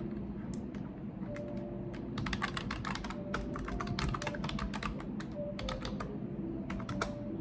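Typing on a computer keyboard: a quick run of keystrokes starting about two seconds in, then a few scattered keystrokes and a short burst near the end.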